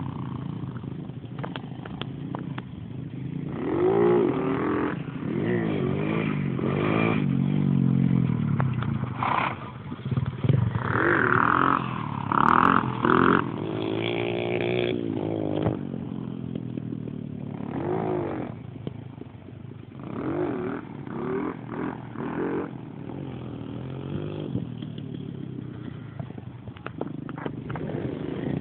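Dirt bike engine revving up and down again and again, its pitch rising and falling with the throttle.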